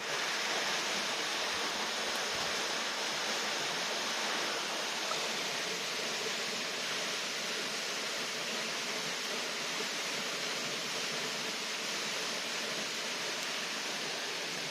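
Water heating toward the boil in a pot over a campfire, a steady rushing hiss.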